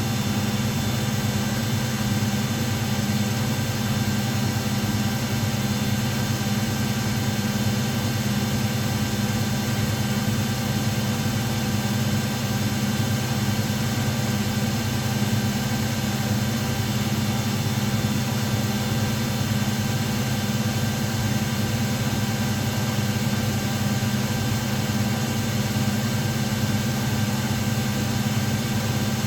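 Front-loading washing machine running with a steady, unbroken low hum and a set of even tones above it.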